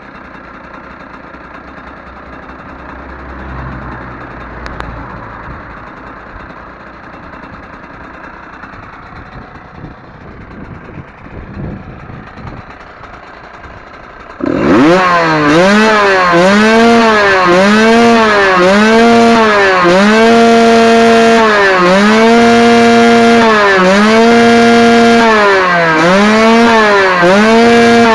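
Husqvarna SM 125's two-stroke single engine. For the first half there is only a quieter, muddled engine-and-noise background. About halfway through, a sudden loud high-revving note begins whose revs drop and climb back to a steady high pitch over and over, roughly every two seconds.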